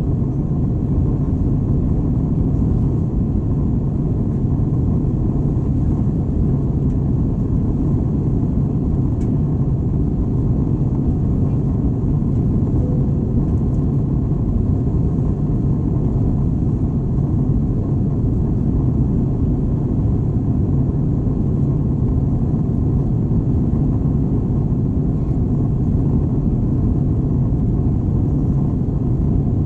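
Steady low cabin rumble of an Airbus A321 airliner, the engine and airflow noise heard from inside the cabin, even throughout with no distinct events.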